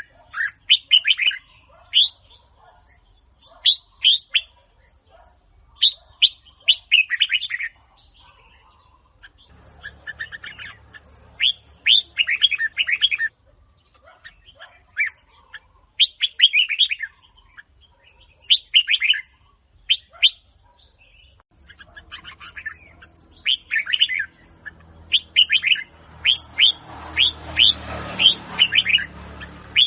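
Red-whiskered bulbul singing: short clusters of quick whistled notes that sweep up and down, repeated every second or two with brief pauses between phrases. A faint low hum runs under the song at times.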